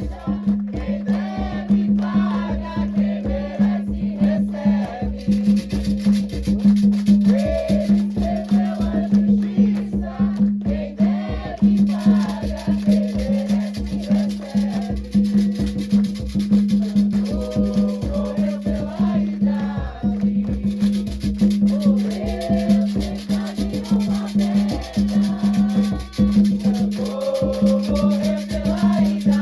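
Afro-Brazilian religious music for Xangô: drumming with rattles and shakers driving a rapid, continuous rhythm under group singing, with a steady low tone beneath.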